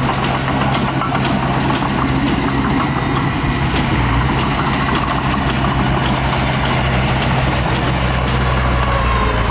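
Heavy machine's diesel engine running steadily at an even pitch, with faint scattered clicks and clanks over it.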